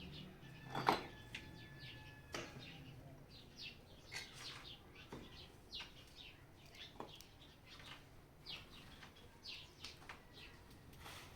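Birds chirping, short repeated chirps throughout, with a sharp knock about a second in and a smaller one a little later.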